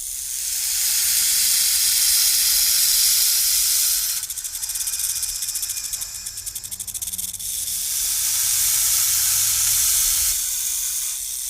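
Snake hissing: one long, loud breathy hiss, with a fast fluttering rattle through it for a few seconds in the middle.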